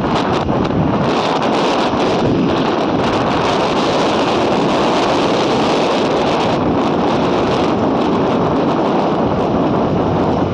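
Strong wind buffeting the microphone: a loud, steady rush of noise, with crackling gusts from about one to eight seconds in.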